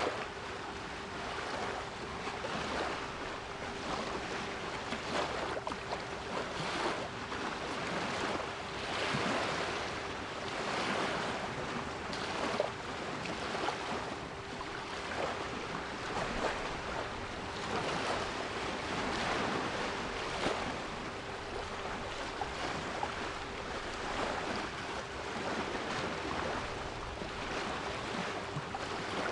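Sea waves washing ashore, a continuous surf noise that rises and falls every few seconds, with a steady 396 Hz pure tone held underneath.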